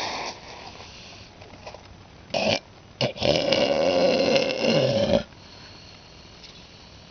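Young northern elephant seal calling: a short burst about two and a half seconds in, then a long, burp-like call of about two seconds.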